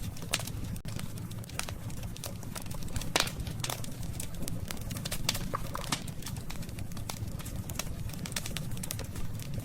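Wood fire crackling: irregular sharp snaps and pops from burning wood over a steady low rumble, with the loudest snap about three seconds in.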